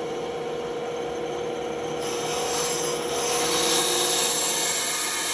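Band saw running with a steady hum. About two seconds in, the blade starts cutting the workpiece, making a hissing, rasping sound that grows louder and holds until the end.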